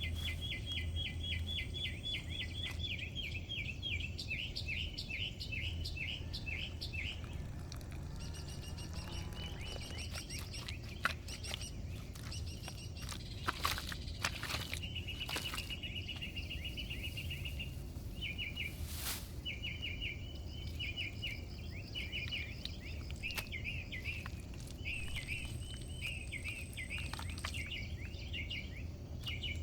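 Small birds chirping in rapid trilled runs, over a low steady outdoor rumble. A few sharp knocks or clicks come in the middle.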